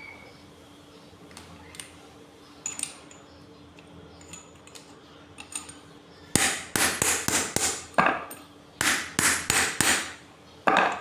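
A few light metal clinks, then a hammer striking metal in a quick run of about a dozen blows starting about six seconds in, with one more near the end. The blows fit driving a ball bearing on or off a water pump motor's shaft during a bearing replacement.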